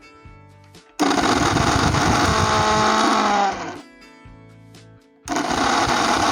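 Mixer grinder motor switched on about a second in, running loudly with a wavering squeaky whine over its hum, switched off so that it dies away past halfway, then switched on again near the end. The squeak comes from the shaft's bush, worn dry from lack of lubrication, with a worn bearing letting the shaft shake.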